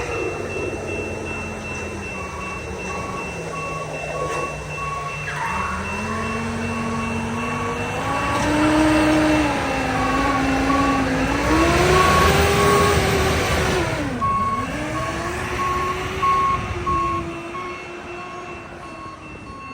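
Diesel engines of rail maintenance-of-way machines dragging a rail, revving up and down several times and loudest in the middle, with an electronic beeping repeating steadily over them.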